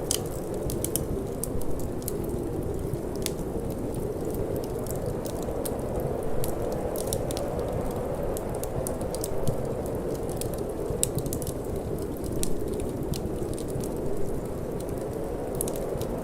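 Wood fire in a fireplace crackling, with frequent sharp pops scattered irregularly, over a steady low rush of cold wind.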